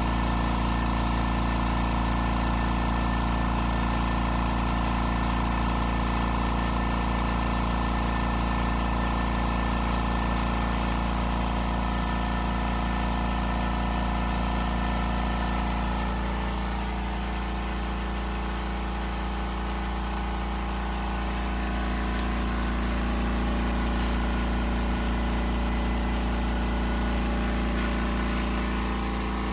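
Oil-less air compressor running steadily, a continuous motor-and-pump hum with a strong low drone, its sound shifting slightly about halfway through.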